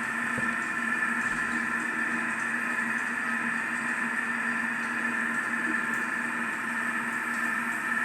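Steady mechanical hum that holds level throughout, with no separate knocks or calls.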